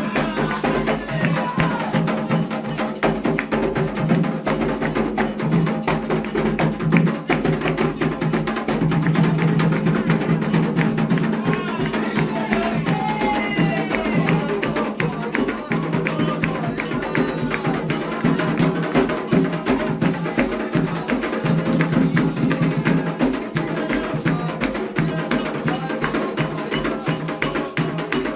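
Candomblé ritual music for Xangô: continuous drumming with a sharp, clacking percussion pattern, and voices singing at times.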